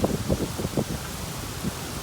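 Heavy rain falling in a thunderstorm, a steady hiss with irregular, heavy drops tapping close by, thickest in the first second.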